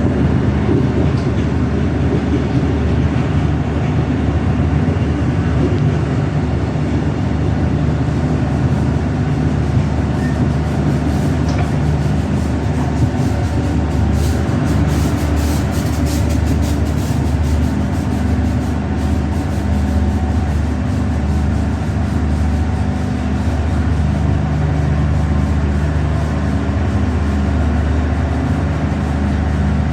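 Train running with a steady low rumble and hum, a few faint clicks in the middle.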